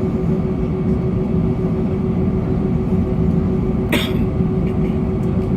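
Cabin noise inside an Airbus A321 airliner: the jet engines running with a steady rumble and a constant hum. A single sharp click or knock sounds about four seconds in.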